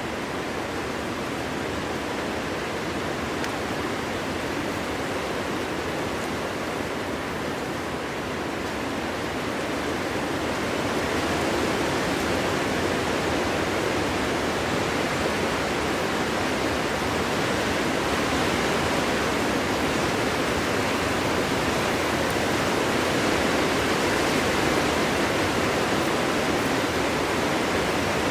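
Wind blowing steadily through a forest, a continuous rushing that swells a little about a third of the way in.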